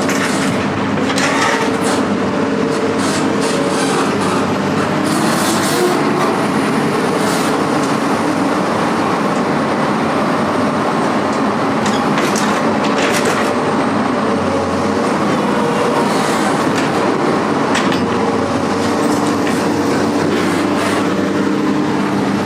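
Heavy vehicle running steadily, its engine drone mixed with continuous rattling and occasional short clanks.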